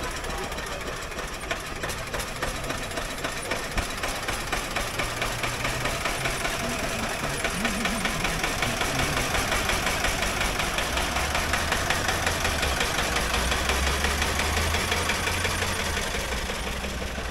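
Veteran car engine running with a regular chugging beat as the car drives slowly by. A deeper engine rumble builds in the last several seconds.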